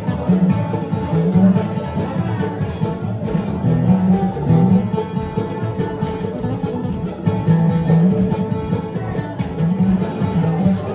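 Bluegrass band playing a fast instrumental tune, with picked banjo and guitar over a steady bass line.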